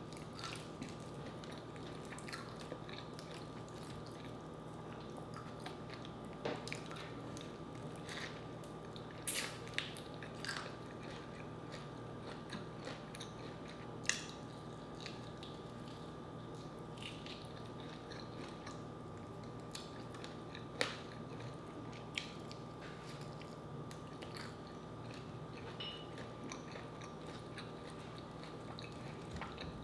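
Close-up mouth sounds of biting and chewing crispy fried chicken: scattered crunches and wet chewing clicks, the sharpest about 9, 14 and 21 seconds in, over a faint steady hum.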